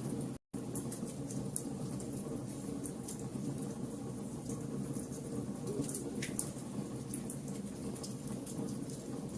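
Fire crackling, with scattered sharp pops and ticks over a steady low rumble. The sound cuts out for a split second about half a second in.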